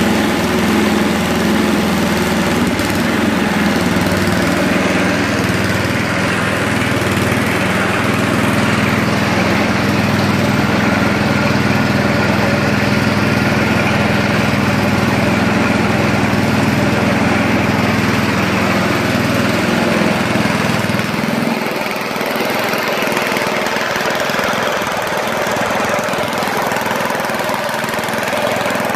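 1971 Ariens snowblower's 7 hp Tecumseh single-cylinder four-stroke engine running steadily. About three-quarters of the way through its low note drops away, leaving a rushing noise.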